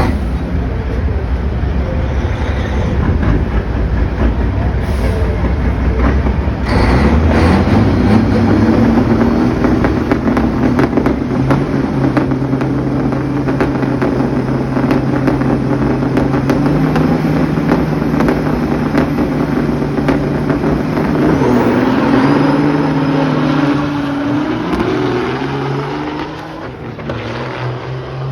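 Kenworth semi-trucks' diesel engines in a drag race: a heavy low rumble, then about six seconds in they launch under hard acceleration. The engine note climbs in steps through several gear changes and fades near the end.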